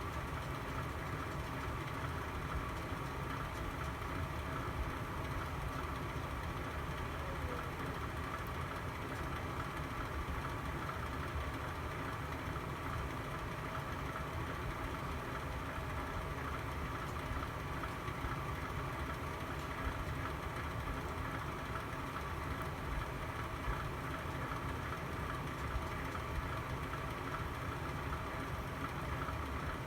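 Fireplace fire burning: a steady low rumble with an occasional faint crackle.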